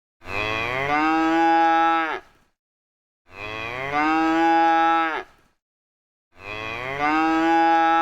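A cow mooing: three identical long moos about three seconds apart, each sliding down in pitch at the end.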